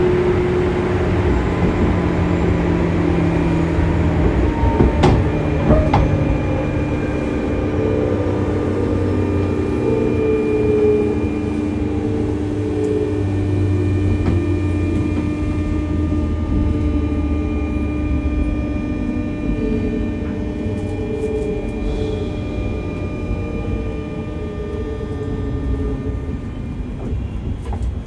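Running noise inside a JR West 201-series electric train's motor car: motor and thyristor-chopper whine with steady tones and slowly falling tones, typical of the train slowing under braking as it nears a station, with two sharp knocks about five and six seconds in.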